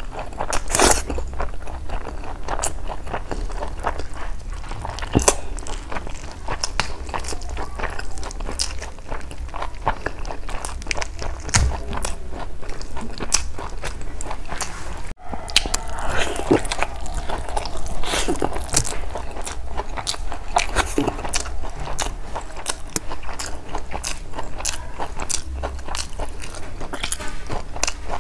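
Close-miked eating: a person biting and chewing a chicken leg with curry-soaked rice, with many irregular wet mouth clicks. There is a momentary gap about halfway through.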